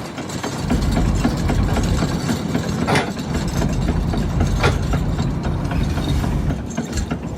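Fishing boat's engine running steadily under load, with two sharp knocks about three seconds and four and a half seconds in.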